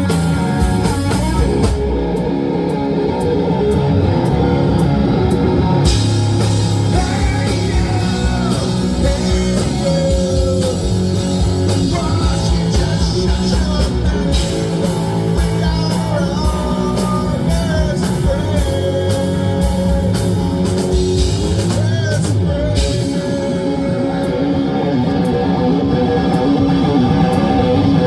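A live rock band playing, with electric guitar, drum kit and singing.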